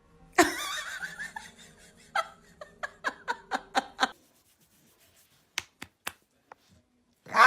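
A person laughing: a burst of laughter about half a second in, then a run of short, quick laughs that stops about four seconds in. A few faint clicks follow near the end.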